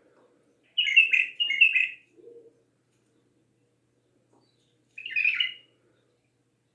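A bulbul singing two short, clear whistled phrases a few seconds apart, the first about a second in and the second near the end.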